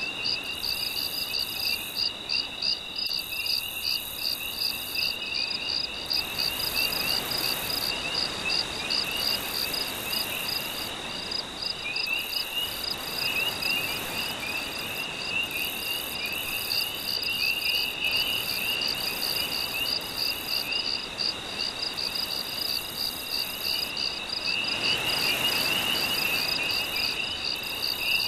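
Night insect chorus: crickets trill in a steady rapid pulse over a chirping band, with a higher buzz that switches on and off every few seconds. Beneath it a soft wash of gentle sea waves swells up twice, a few seconds in and again near the end.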